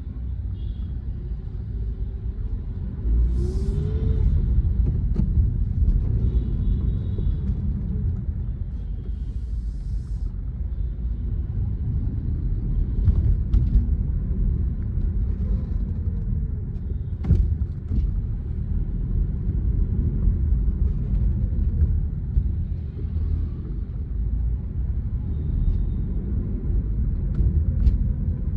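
Car engine and road rumble heard inside a moving car's cabin while driving through city traffic, steady and low, with the engine note rising and falling slightly now and then.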